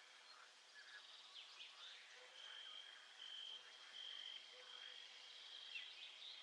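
Faint nature ambience: birds giving short chirps and quick up-and-down calls, over a steady high-pitched trill that breaks off and starts again several times.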